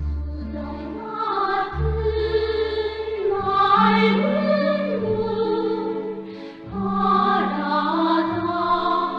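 Music: a choir singing long held notes with vibrato over low, sustained bass notes.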